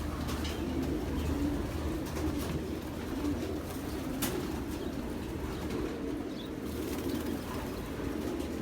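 Many racing pigeons cooing together in a loft, a continuous low cooing with a sharp click about four seconds in.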